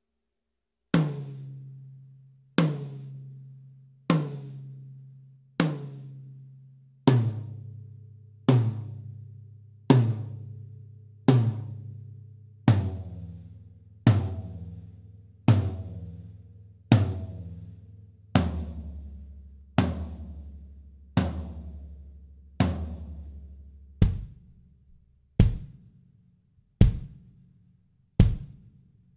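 Gretsch Renown Purewood hickory drum kit played one drum at a time: single strokes about a second and a half apart, each left to ring out, four on each tom from the highest to the lowest, the pitch stepping down. Near the end come four short, deeper bass drum hits.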